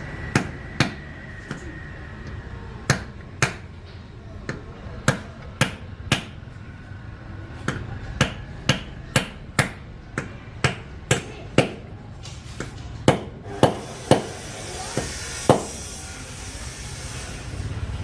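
Hammer blows, about two dozen sharp strikes at uneven intervals, some in quick pairs, stopping near the end, over a low steady hum.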